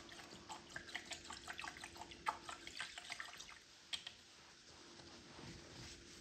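A quick, irregular run of small wet clicks and drips for about four seconds, then it stops.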